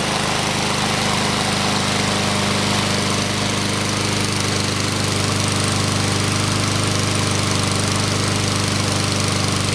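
Honda GCV160 single-cylinder engine on a Husqvarna 22-inch walk-behind mower running steadily, with the newly fitted blade turning.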